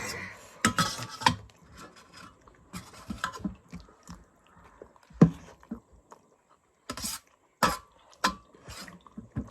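People eating spicy instant noodles: chewing, with about half a dozen short, sharp eating noises spread through and a cough.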